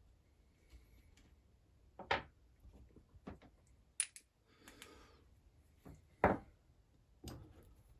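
Small metal chainsaw engine parts (piston and gudgeon pin) knocking and clinking as they are handled and set down on a workbench: about five sharp knocks, the loudest a little after 6 s, with a short rustle near the middle.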